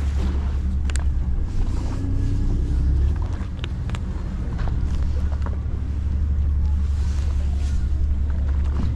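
Fishing boat's engine running with a steady low drone, wind buffeting the microphone, and a few sharp clicks and knocks.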